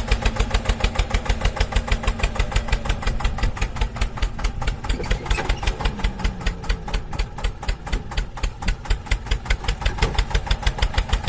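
Tractor engine running with a steady, fast, even chugging beat.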